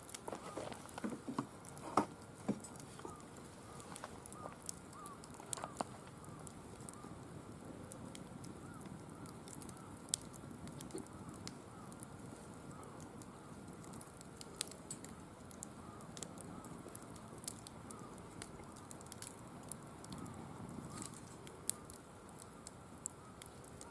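Firewood burning in a wire-mesh fire pit, crackling with frequent irregular sharp pops over a low steady burning noise; the pops are a little louder and denser in the first few seconds.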